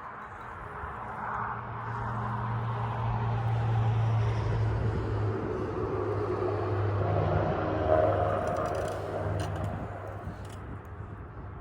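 An engine passing by: a steady low hum that grows louder over the first few seconds, holds, then fades away near the end.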